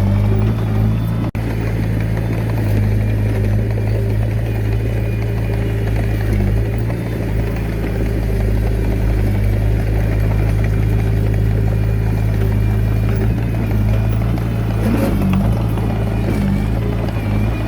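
Diesel engine of a Komatsu D21A mini bulldozer running steadily at working speed. There is a momentary dropout about a second in, and the engine pitch wavers near the end.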